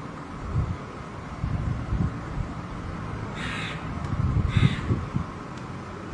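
A crow cawing twice, two short harsh calls about a second apart, over a low rumble.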